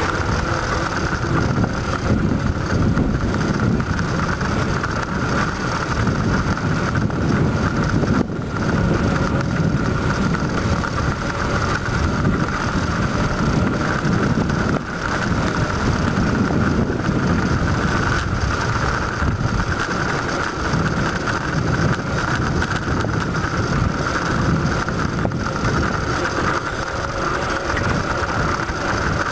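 Steady wind rushing and buffeting over the microphone of a rider on a moving bicycle, with road noise beneath it.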